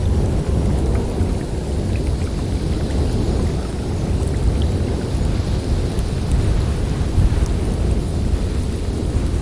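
Snowstorm wind blowing steadily with a deep, low rumble and a thin hiss above it.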